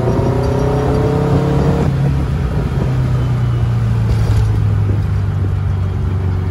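Air-cooled VW engine of a 1969 Barris Mini T accelerating under way, its note rising for nearly two seconds. The rising note then breaks off and the engine runs on with a steady low rumble.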